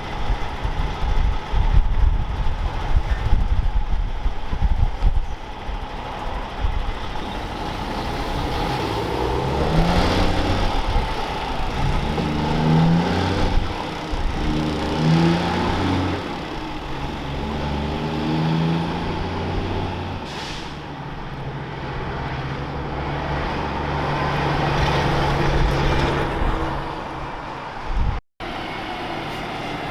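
Heavy diesel truck pulling away and accelerating through its gears: the engine note climbs, drops at each gear change and climbs again, then settles into a steady run. A short air hiss comes about two-thirds of the way through, and the sound cuts out briefly near the end.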